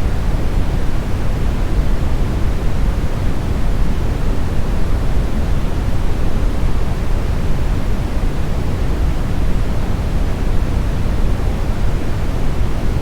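Steady, unchanging brown noise: a deep, even rumbling hiss with most of its energy in the bass and little in the highs.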